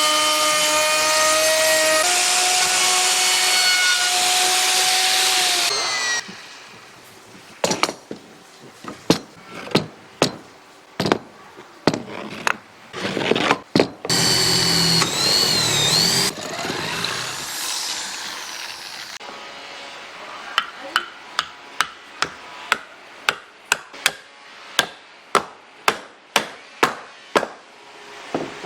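A power tool's motor runs steadily for about six seconds, stepping in pitch once. It is followed by a long series of sharp knocks and taps, hand-tool hammering, which settle into about two strikes a second near the end.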